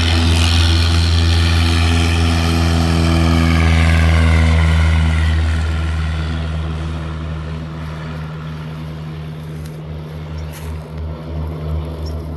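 Single-engine propeller airplane flying past after takeoff, its engine drone dropping in pitch a few seconds in, then fading away.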